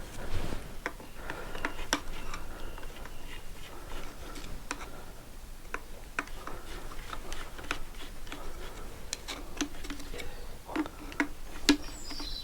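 Light, irregular metallic clicks and clinks of small engine parts being handled as an engine clutch is taken apart by hand.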